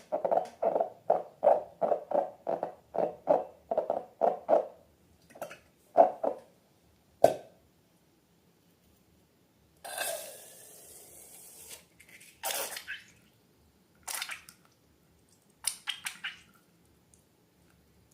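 Slime and balloons being handled and squeezed. First comes a quick run of squeaky pulses, about three or four a second, for the first four or five seconds. About ten seconds in there is a hiss lasting about two seconds, then a few short crackly squishes.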